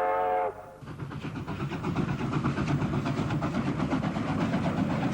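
Steam locomotive whistle sounding, cutting off about half a second in. Then the locomotive running with fast, even exhaust beats that grow louder.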